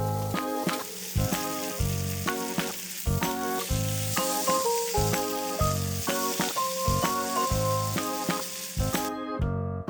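Pork shoulder sizzling as it grills, a steady hiss that cuts off suddenly near the end, under background music with a steady rhythmic melody.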